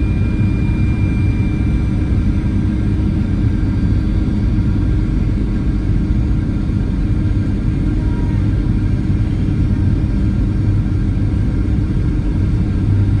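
Boeing 737-800 cabin noise during the descent: a steady, loud rumble of engines and airflow, with a few faint steady tones above it.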